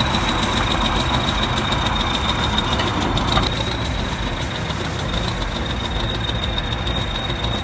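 Diesel engine of a T-130 crawler bulldozer running steadily under load while towing a broken-down truck uphill, with a steady high-pitched whine over the engine noise.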